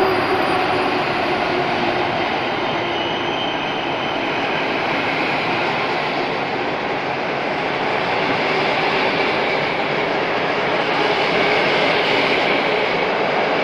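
Locomotive-hauled passenger coaches rolling past along a platform: a steady rumble of wheels on rail, dipping a little in the middle and swelling again near the end.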